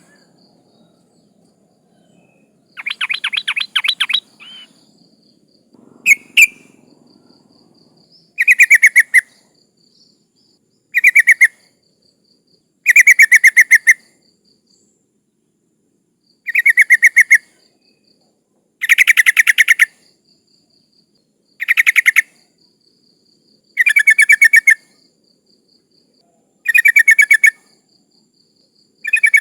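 Yellow-vented bulbul (trucukan) calling: about ten short bursts of rapid, stuttering chattering notes, repeated every two to three seconds. The uploader presents it as a female calling for a male.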